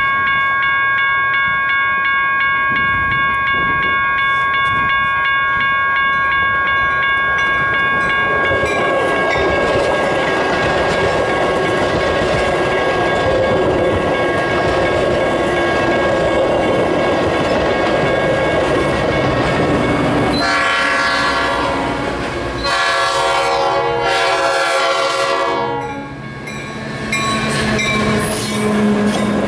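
Metra commuter train passing close by: a long multi-note horn blast through the first several seconds, then the rush and clatter of bilevel cars on the rails. About 20 seconds in the horn sounds twice more, and near the end the F40PH diesel locomotive goes by with a low steady engine drone.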